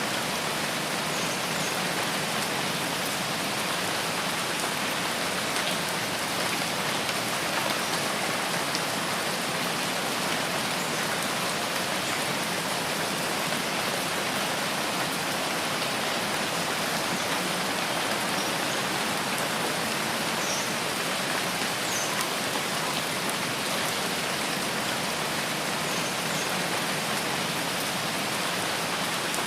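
Steady rain falling, an even hiss that keeps on without let-up.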